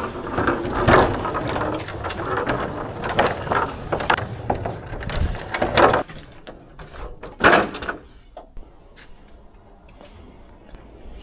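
Rattling, scraping and knocking of goods being handled while a truck is unloaded, busy for about six seconds, then one loud bang about seven and a half seconds in, followed by a few quieter knocks.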